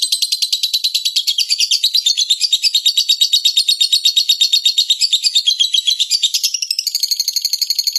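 Songbird song, a rapid unbroken run of high chirps at about ten a second, which switches to a different chirp pattern near the end.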